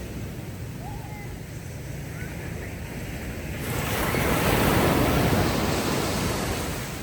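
Ocean waves washing onto a beach: a wave surges in about halfway through, peaks, and ebbs away near the end.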